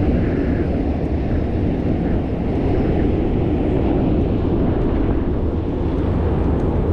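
Steady low wind rumble on the microphone of a camera riding along on a moving bicycle, with a hiss of road and tyre noise.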